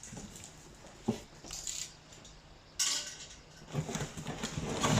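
Packaging and vacuum-cleaner parts being handled while unboxing: a sharp knock about a second in, a short rustle, then a sudden louder rustle near the three-second mark and busy rustling and knocking toward the end.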